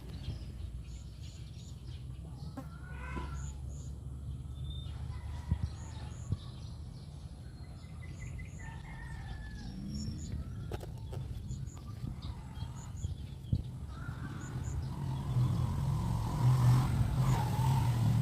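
Chickens calling and clucking, with a rooster's crow among them, over a low steady hum that grows louder near the end.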